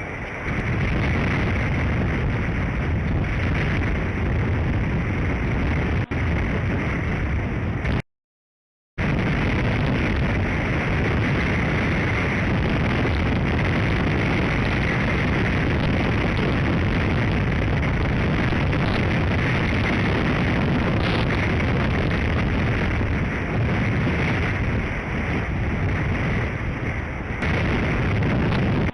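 Strong wind buffeting an outdoor nest-camera microphone: a loud, steady rumbling rush. It breaks off to dead silence for about a second, eight seconds in.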